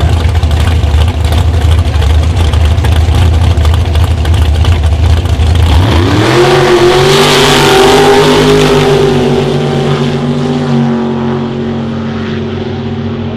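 A drag-racing car's engine rumbles loud and rough at low revs. About six seconds in, its pitch sweeps sharply up as it launches and accelerates hard down the strip, then the sound slowly fades.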